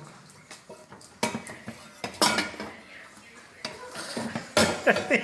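Cutlery and dishes clinking: a few separate clanks, each with a short ring, roughly a second apart.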